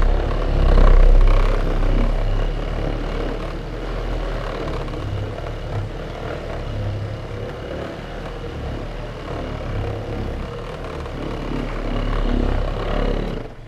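A power polisher (buffer) running steadily while waxing the boat, its level rising and falling a little, then stopping suddenly near the end.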